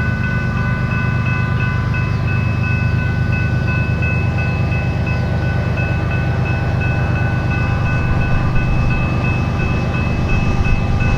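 A train rumbling past, with several steady high ringing tones over the rumble that pulse a few times a second.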